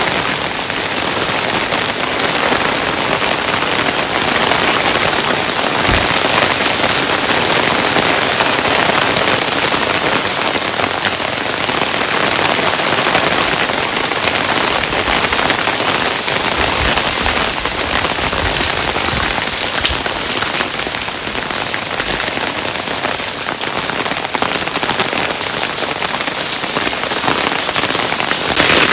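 Hailstones falling steadily, a dense patter of many small impacts, with a few heavier low thuds here and there.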